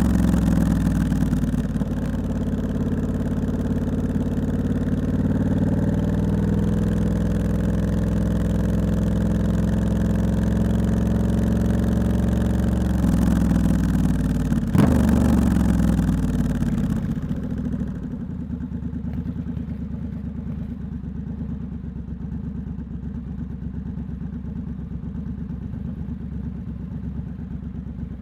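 Triumph Scrambler 1200X's parallel-twin engine through its loud aftermarket Hitchcox exhaust, running at low speed with the engine note gently rising and falling. There is a sharp click about fifteen seconds in, and after that the bike settles to a quieter, steady low idle.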